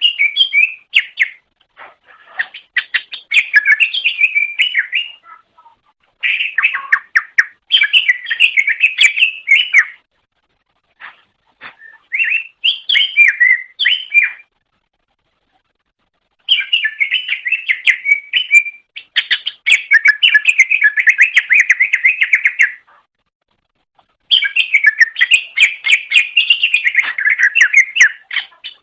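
Green leafbird (cucak ijo) singing: loud, fast phrases of quick, varied chirping notes, each lasting a few seconds, separated by brief pauses.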